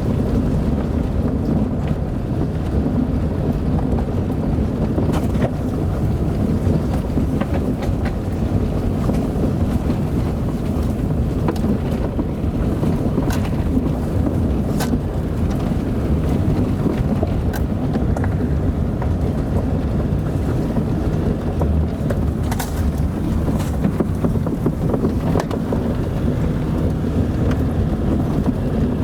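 A car driving on a dirt road: a steady low rumble of tyres and engine, with scattered sharp clicks and ticks from the rough surface.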